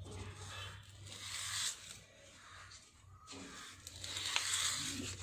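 A comb drawn through long, heavily oiled hair, making two long scraping strokes, the second starting about three and a half seconds in, with a few small clicks.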